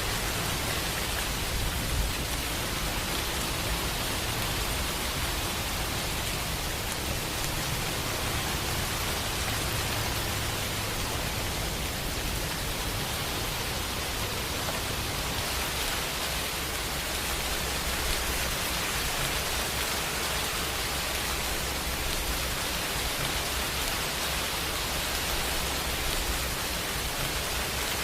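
Steady, even rain with a low rumble of distant thunder underneath that swells and fades.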